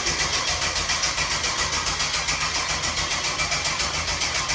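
LS 6.0 408 stroker V8 on an engine stand being turned over by its starter, cranking steadily with an even pulse of about five beats a second without catching. It fails to fire, which is put down to no gas or no spark, most likely no gas.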